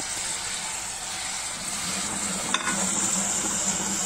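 Spices and ginger-garlic paste sizzling in hot oil in an aluminium pot, stirred with a slotted spoon, with one light knock of the spoon about halfway through. A low hum comes in about halfway.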